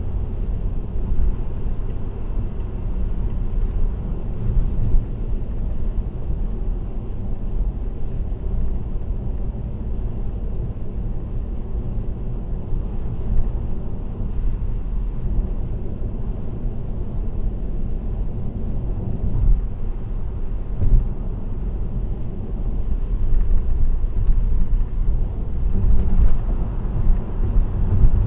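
Road noise inside a car cruising on an expressway: a steady low tyre and engine rumble, with faint light ticks now and then.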